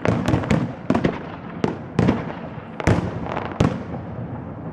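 Fireworks salute shells bursting in a quick, irregular series of about a dozen sharp bangs, each trailing off in a short echo.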